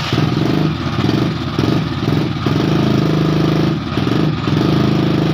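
Engine idling steadily, with a fast even firing pulse.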